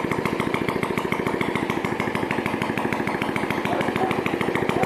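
A 50cc enduro motorcycle engine bored out to 72cc, running steadily at idle on its first start, with a rapid, even firing beat.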